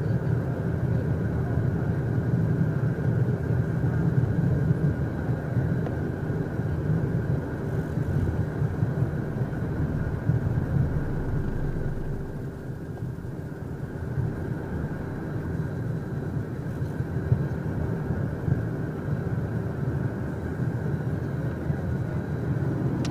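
Cockpit noise of the Beechcraft Premier 1A's twin Williams FJ44 turbofan engines at takeoff power during the takeoff run: a steady heavy rumble with steady whining tones over it.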